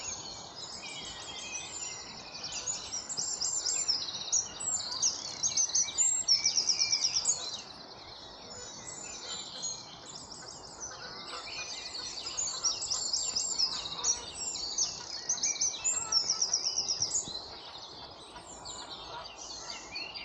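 Dawn chorus: several songbirds singing at once, their songs and calls overlapping. Twice a loud, fast, rapidly repeated trill stands out above the rest.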